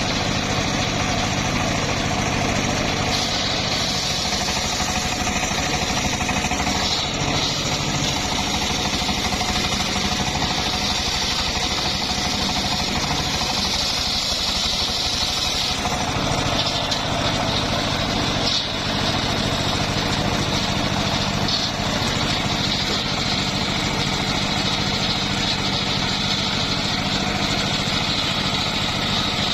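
Homemade engine-driven circular sawmill running steadily, its blade cutting through old, somewhat hard mahogany. The engine is steady throughout, with a brighter cutting noise that grows from a few seconds in.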